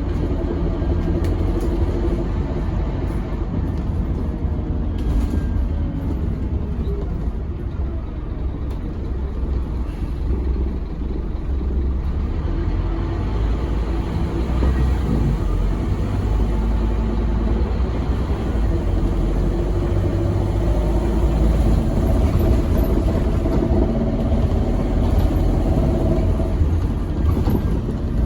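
Scania K270UB6 Omnilink bus with ZF Ecomat automatic gearbox running under way: a steady, deep engine rumble, with a faint held whine in the later part.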